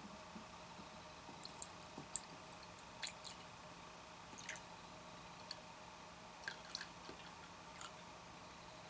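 Faint, sparse clicks and small wet ticks of food being handled while cooking, scattered irregularly over a steady low hum.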